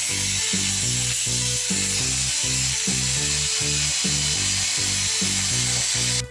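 Steady crackling hiss of welding, with background music playing over it; the hiss cuts off suddenly near the end.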